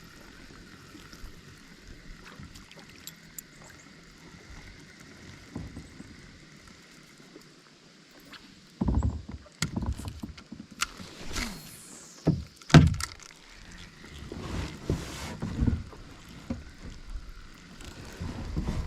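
Kayak sounds: a quiet stretch of faint water and wind, then, from about halfway, a run of irregular knocks and bumps against the kayak with scraping in between, as paddle or gear is handled on board.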